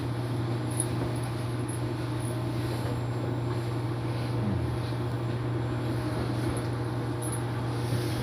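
Inside a Seoul subway Line 1 express train car, heard while running: a steady low hum with an even rumble of wheels and motors.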